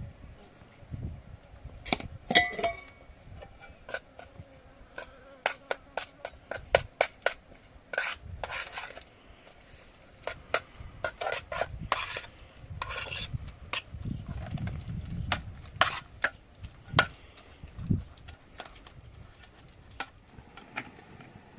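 Kitchen utensils clinking and scraping against cookware in irregular knocks, the loudest about two seconds in with a brief metallic ring.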